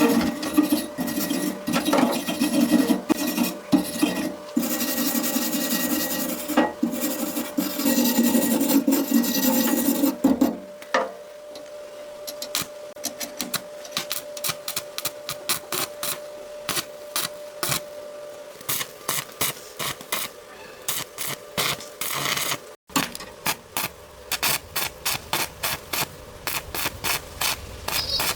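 Hand-worked scraping strokes, like a file or rasp rubbing on a hard surface. They come thick and continuous for the first ten seconds or so, then turn into separate short strokes that quicken to about two a second toward the end. A faint steady hum sits under the first two-thirds.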